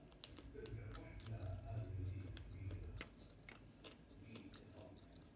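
Close-miked chewing of grilled chicken, with many small wet mouth clicks and smacks, and a louder low muffled sound in the first three seconds.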